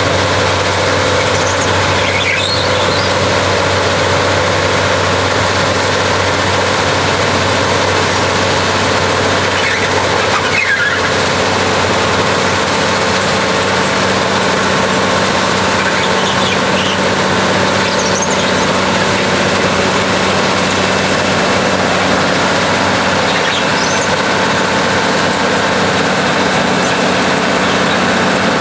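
Railroad ballast cleaner running: a loud, steady mechanical din with several constant hums, and faint brief squeals now and then.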